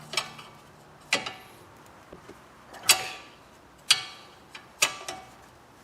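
Sharp metallic clicks with a brief ring, five of them roughly a second apart, from hand tools working the 18 mm bolts that hold a car's front wheel bearing hub.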